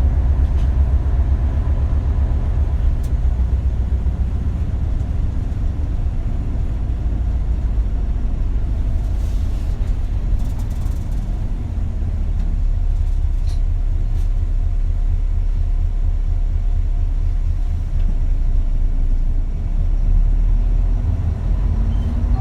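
Isuzu KL-LV280L1 city bus's diesel engine and drivetrain running as heard from inside the bus, a steady low rumble. Near the end the engine note rises as it picks up revs.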